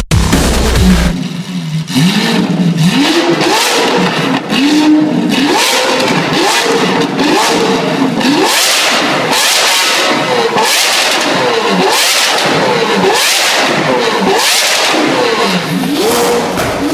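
Lamborghini Aventador LP700's 6.5-litre V12 being revved in repeated throttle blips, about one a second, its pitch rising and falling each time.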